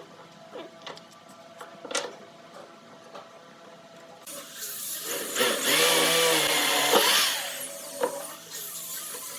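A few light knocks from handling wood, then a handheld power tool starts about four seconds in and runs loudly, its motor pitch wavering, before easing off slightly near the end.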